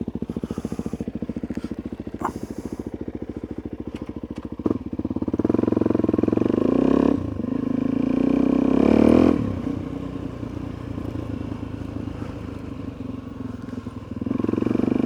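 Suzuki DR-Z400E single-cylinder four-stroke dirt bike idling, then pulling away about five seconds in. It revs up through a gear change about seven seconds in, then settles to a steadier, lower running note after about nine seconds.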